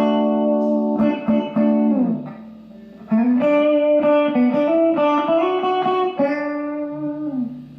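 Electric guitar playing a country lead lick built on the D major triad at the seventh fret of the D, G and B strings: a short phrase of ringing notes, a pause of about a second, then a longer run of single notes.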